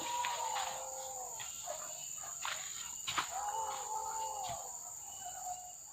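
Hunting dogs baying in two long, drawn-out howls, one at the start and another about three seconds in, over a steady insect drone.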